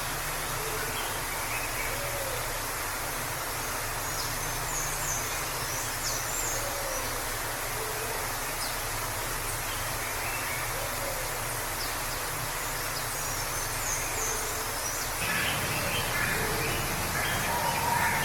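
Waterfall rushing steadily, with small forest birds chirping now and then over it. About fifteen seconds in the rush gets a little louder and the birdsong busier.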